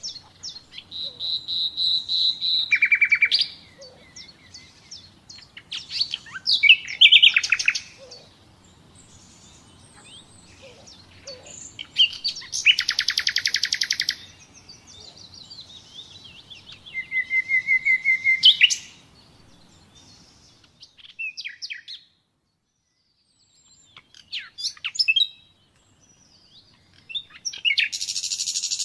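Common nightingale singing: a string of varied phrases of rapid repeated notes, clear held whistles and fast trills, each phrase a few seconds long with short pauses between.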